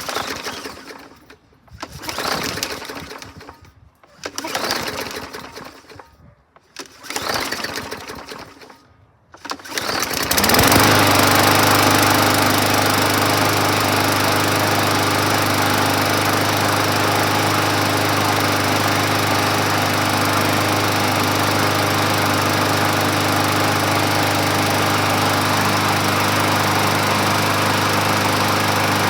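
Briggs & Stratton 500E series engine on a 21-inch walk-behind mower being pull-started: several cranking pulls about two seconds apart, then it catches about ten seconds in and runs steadily on fresh fuel.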